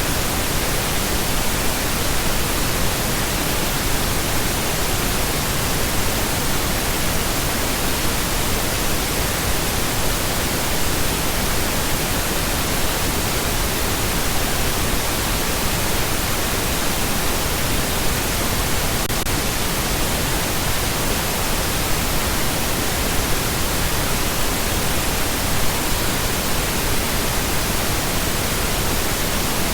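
Steady, unchanging pink noise: an even hiss spread across the whole range, with no tones or breaks.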